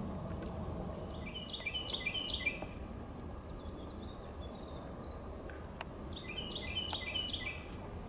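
A songbird singing two phrases of quick, stepped notes that fall in pitch, a short one about a second in and a longer one through the second half, over a steady low outdoor background noise.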